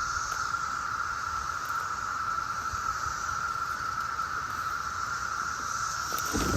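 Cicadas calling: a continuous, steady buzzing drone with a hiss above it. A few brief rustles or knocks come near the end.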